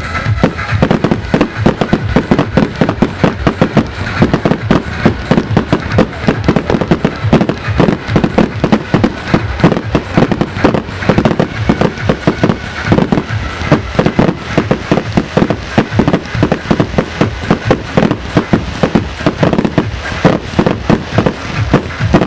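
Fireworks display: a steady, dense barrage of bangs and crackles from exploding shells, several reports a second.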